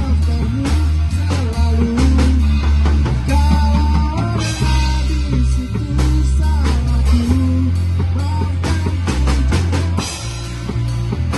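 Live rock band jamming: electric guitar playing bending, gliding lead lines over a heavy bass line and a drum kit with frequent cymbal and snare hits.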